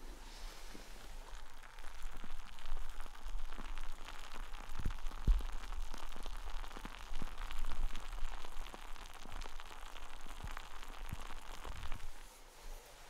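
Michelob Ultra Pure Gold beer fizzing in a glass: a dense crackle of bursting carbonation bubbles that starts suddenly and fades near the end, with a couple of low bumps midway.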